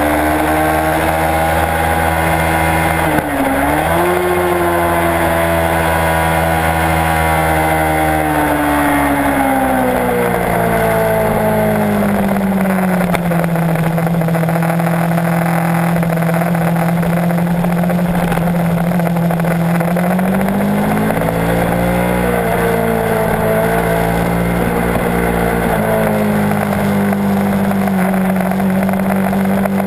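Kawasaki Ninja 650's parallel-twin engine running under way, with wind rushing past the bike. Its note dips sharply and recovers about three seconds in, then falls steadily as the bike slows and holds a lower steady note. It rises again around twenty seconds in and settles at a steady, slightly higher note.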